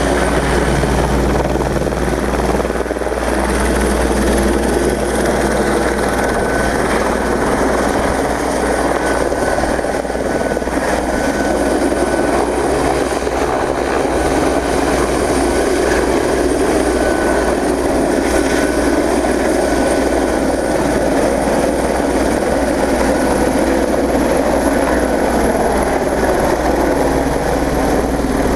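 Fire brigade helicopter's rotor running steadily: a continuous deep throb that hardly changes.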